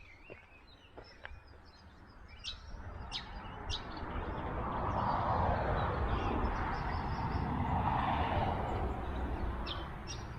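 Small birds chirping, with a broad rushing noise that builds from about two seconds in, is loudest in the middle and fades near the end.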